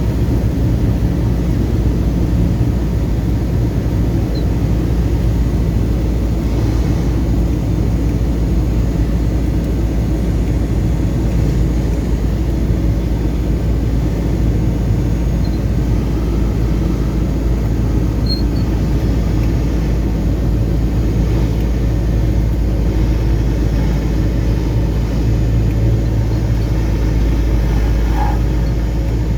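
Cessna 172RG's four-cylinder piston engine and propeller droning steadily at constant power.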